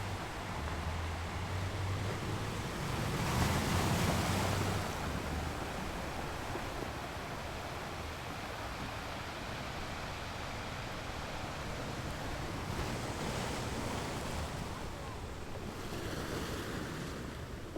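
Ocean surf: waves breaking and washing up onto a beach in a steady rush. One wave breaks louder about three to four seconds in, and softer swells follow near the end.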